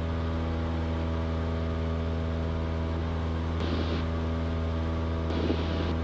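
Cessna 172's piston engine and propeller droning steadily in cruise flight, heard in the cockpit. Two brief bursts of hiss come through, about three and a half and five seconds in.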